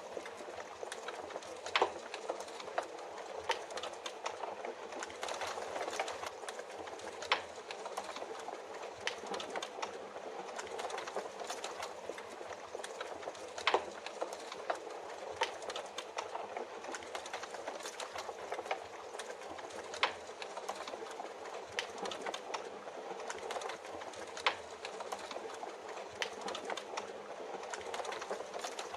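Wood fire crackling with irregular sharp pops over a steady hiss of rain.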